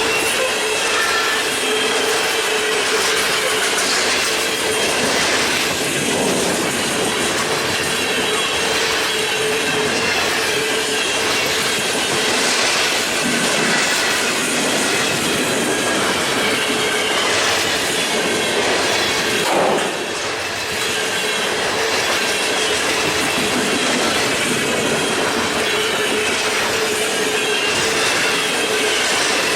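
Freight train cars rolling past, wheels squealing against the rails in steady high tones, with the clickety-clack of wheels over rail joints.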